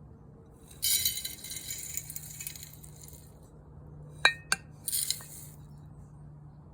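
Small hard objects rattling and clinking, like utensils or glass being handled. A jingly rattle for a couple of seconds is followed by two sharp ringing clinks a moment apart and a brief second rattle.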